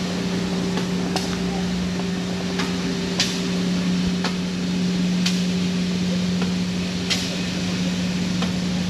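An excursion train's locomotive idling in the station, a steady machine hum. Sharp clicks recur every second or two over it.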